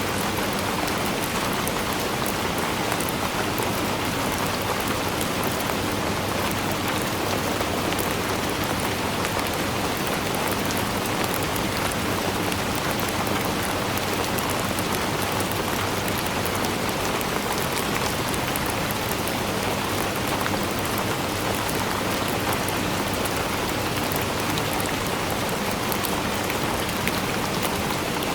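Steady rain falling, a dense even hiss of rainfall with many small drop patters on a surface.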